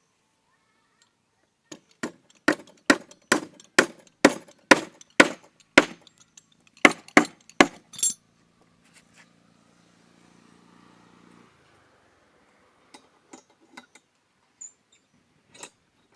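A hammer driving nails into timber: a quick run of about fifteen sharp, ringing blows at roughly two a second, stopping about halfway through, followed by a few light taps near the end.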